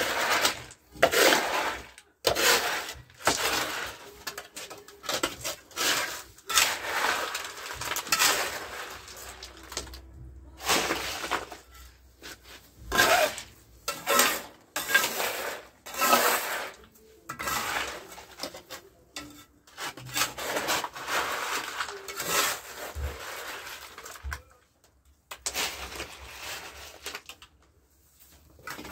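Irregular series of scraping strokes of a hand tool on rough building material, each stroke lasting about half a second to a second with short pauses between.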